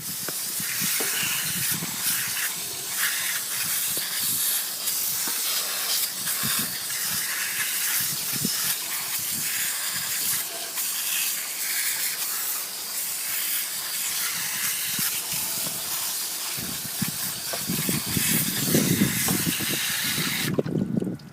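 Water spraying from a hose onto a mower engine to rinse off degreaser: a steady hiss of spray, with heavier splashing late on. It cuts off suddenly near the end.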